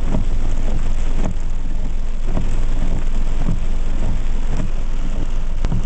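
Heavy rain falling, with scattered sharp drop taps over a steady low rumble of vehicle noise.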